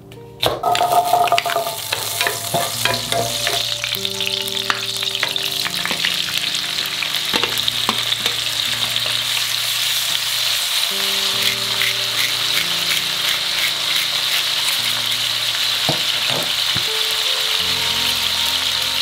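Chicken gizzards and whole garlic cloves sizzling steadily in hot oil in a frying pan, with occasional knocks of a spatula stirring them. The sizzle starts about half a second in.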